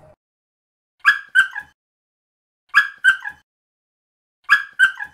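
Dog barking in quick sets of three short yaps, each set repeated the same way three times about every second and a half to two seconds, the third yap of each set lower in pitch.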